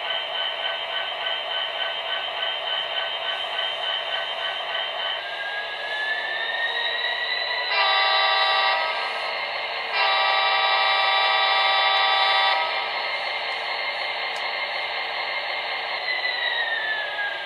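Factory sound file of an MTH HO-scale SD70ACe model diesel locomotive, played through the model's small speaker. The diesel engine sound runs steadily, then revs up about five seconds in. A short horn blast sounds near eight seconds and a longer one from about ten to twelve and a half seconds, then the engine winds back down near the end.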